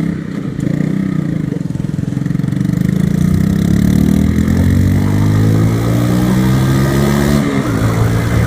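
Motorcycle engine pulling away and accelerating, its pitch rising steadily for several seconds, then dropping at a gear change near the end and starting to climb again.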